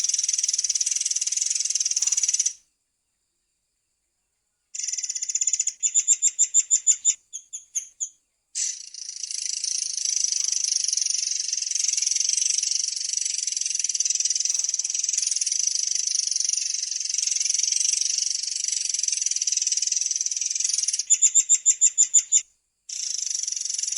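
Murai air songbird singing a long, high, continuous rolling trill. It breaks twice into runs of quick, evenly repeated notes, about eight a second, and stops dead twice in abrupt silent gaps.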